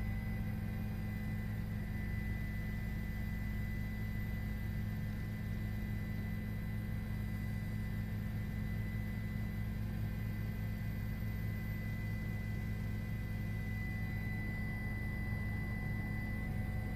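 Steady low drone and hum with a thin high whine, unchanging throughout.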